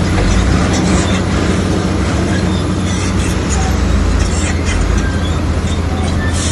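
Komatsu crawler bulldozer's diesel engine running under load with a steady low rumble, with short high metallic squeaks from the steel tracks scattered through it.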